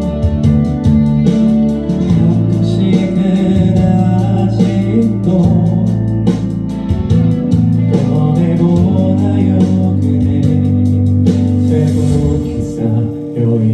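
Band music led by guitars over a bass line, with frequent drum strokes.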